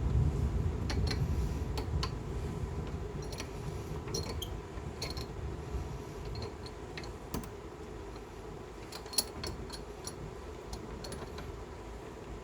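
Scattered small, sharp clicks and taps over a low rumble that is strongest in the first two seconds and then eases off.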